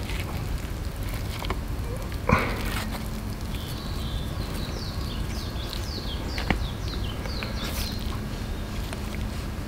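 Birds chirping in the background in series of short, quick falling calls, over a steady low outdoor rumble. Two sharp knocks stand out, one a little over two seconds in and one about six and a half seconds in.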